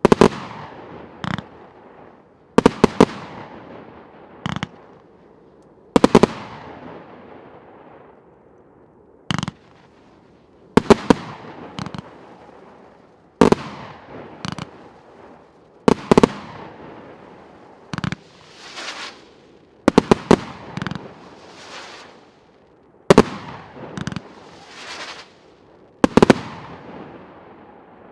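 A 1.2-inch Vivat firework battery (cake) firing its shots one after another. The sharp bangs come every two seconds or so, often two or three close together, and each is followed by a fading tail of sound.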